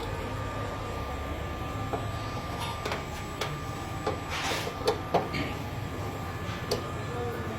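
Scattered short clicks and knocks of tools and metal parts being handled while fitting a washing-machine motor, over a steady low hum.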